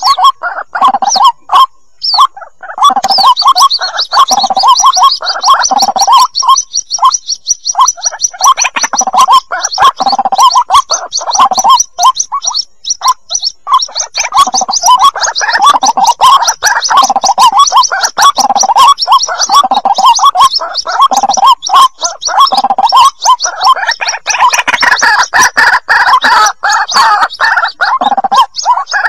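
White-breasted waterhen chicks calling: dense, rapidly repeated chirping calls, with a high, fast trill running above them from about two and a half seconds in.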